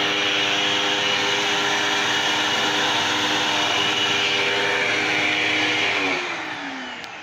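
Vacuum cleaner motor running steadily with a whine and rushing air. About six seconds in it is switched off and winds down, its pitch falling.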